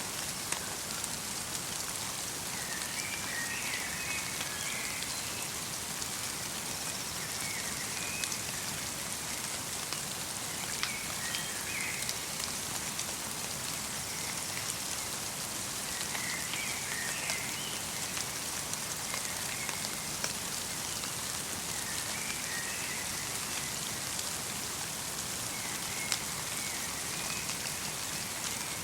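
Steady light rain falling in a forest, an even hiss dotted with many small drop ticks. Short bird chirps come in every few seconds.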